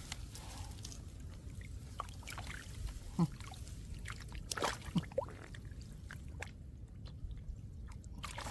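Wet mud squelching and shallow water sloshing as hands work through a muddy rice-field puddle, with a few brief sharp sounds scattered through.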